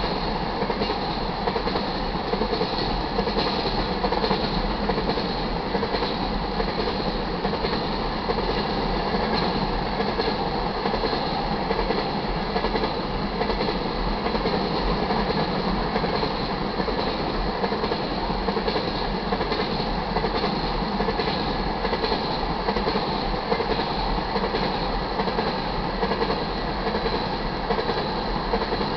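Freight train of ethanol tank cars rolling past a grade crossing: steady wheel-on-rail noise of the passing cars, with no locomotive in earshot.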